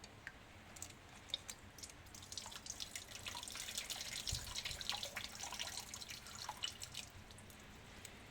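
Liquid dripping and trickling, most likely engine coolant running out of a disconnected heater or overflow hose. The quick drips thicken into a dense patter about two seconds in and thin out again near the end.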